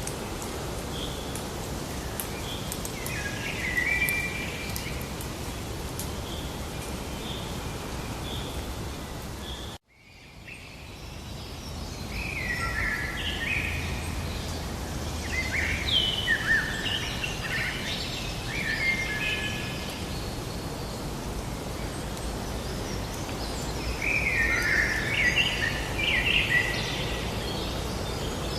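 Songbirds chirping and singing in short phrases over a steady hiss of outdoor ambience. About ten seconds in the sound cuts out sharply and fades back in, after which the birdsong is busier.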